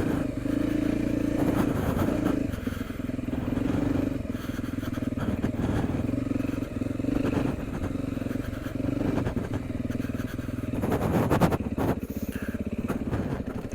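Beta 390 RR four-stroke single-cylinder dirt bike engine running at moderate revs under a light, varying throttle on a trail ride. A few knocks near the end.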